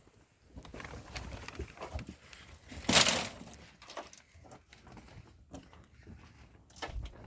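Scattered knocks and scrapes of hands at work, with one loud, brief rushing noise about three seconds in.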